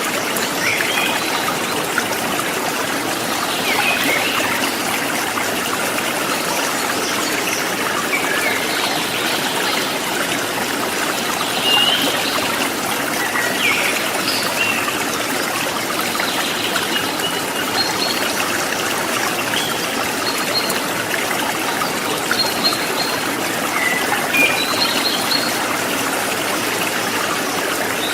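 A rocky river running steadily over stones, a continuous rushing and trickling, with short faint high notes scattered through it.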